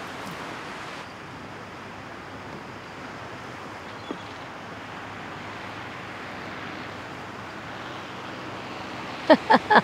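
Steady wash of sea surf and wind on a sandy beach. Near the end, a quick run of loud, short pitched sounds cuts in over it.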